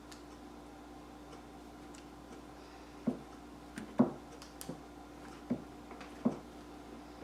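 Uneven small clicks and taps from hands working on an old metal craft tin, starting about three seconds in, over a faint steady hum.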